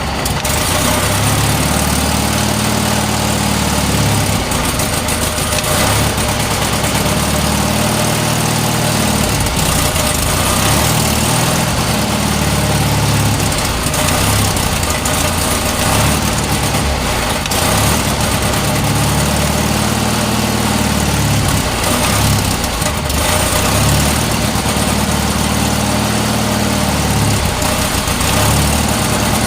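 John Deere 317's engine idling just after a cold start, running continuously with its low note wavering slightly every few seconds.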